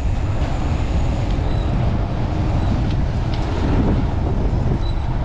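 Strong wind buffeting the microphone of a chest-mounted camera on a moving bicycle: a loud, steady low rumble of wind noise.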